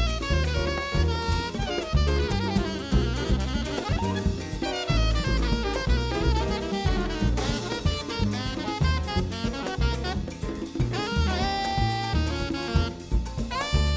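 Live jazz band playing: a saxophone carries fast melodic runs over drum kit, percussion and a pulsing bass line, with a few held notes toward the end.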